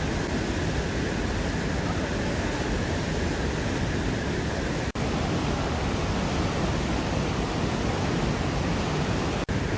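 Rushing water of a large river waterfall: a loud, steady roar with no let-up, broken only by two split-second dropouts, about five seconds in and near the end.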